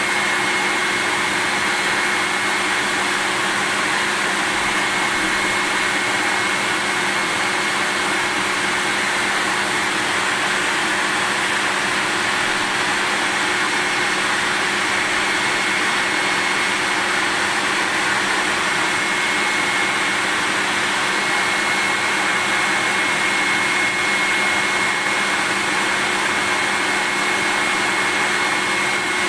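Vacuum cleaner running steadily: an unbroken, even rush of air with a steady high whine on one pitch.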